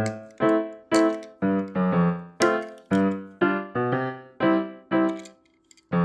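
Background piano music: a melody of single struck notes at a steady pace of about two a second, each note fading before the next, with a brief pause shortly before the end.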